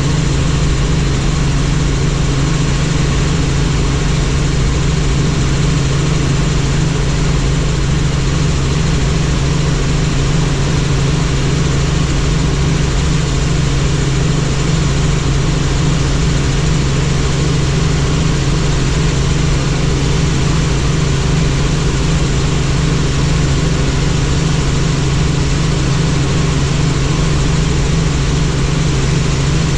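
Helicopter in steady flight: a loud, unchanging engine and rotor drone with a fast, even pulsing from the rotor blades.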